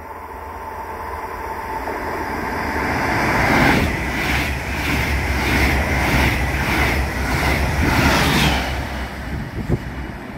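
Electric double-deck regional train approaching and passing: a growing rush of wheels on rail, then a regular clatter of wheelsets about twice a second as the coaches go by between about 4 and 8.5 seconds in, fading as the train draws away. Wind rumbles on the microphone underneath.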